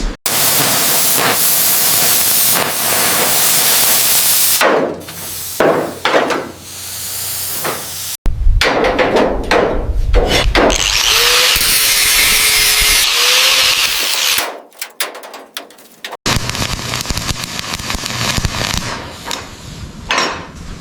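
Loud power-tool noise on a workshop job, in three stretches that break off abruptly, with a wavering whine partway through.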